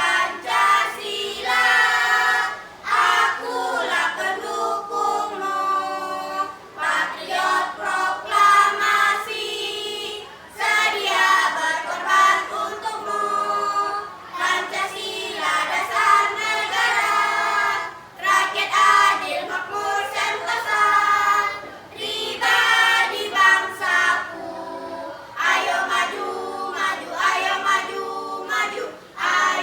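A school choir of young teenagers singing together, in phrases of a few seconds with brief pauses for breath between them.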